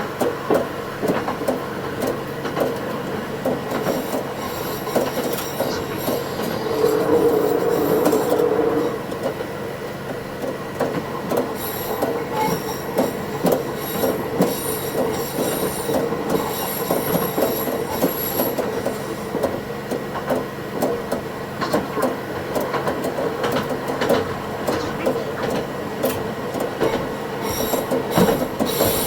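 Meisho Line diesel railcar running along the track, sped up to double speed: a rapid clatter of wheels over rail joints under a steady running tone that swells for a moment about a quarter of the way in, with high wheel squeals coming and going, most in the middle.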